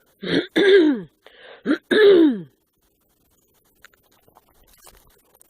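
A person's harsh, wordless throat-clearing noises: four or five short sounds in the first two and a half seconds, each sliding down in pitch.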